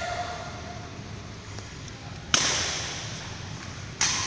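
Two sharp cracking impacts about a second and a half apart, each fading out over about a second.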